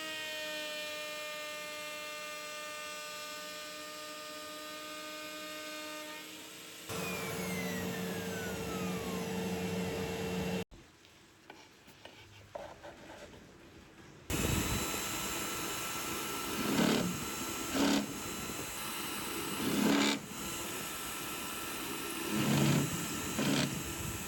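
Power tools working scrap plywood, in several separate stretches. First a steady motor whine, then another tool running and partly winding down, and after a short quieter gap a tool running steadily with several louder surges, as when it bites into the wood.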